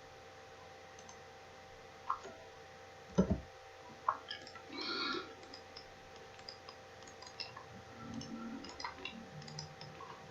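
Scattered computer mouse clicks, with a single low thump about three seconds in.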